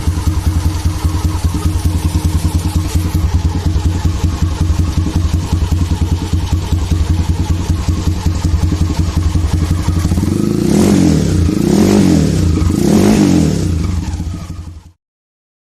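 Motorcycle engine idling through an aftermarket CTS muffler of 2-inch (50 mm) diameter, with three quick throttle blips near the end. The sound stops abruptly just before the end.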